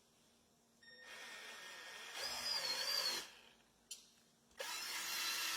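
Electric polisher buffing the repaired paint, running in two spells: it starts about a second in, runs harder for about a second, stops, then starts again near the end.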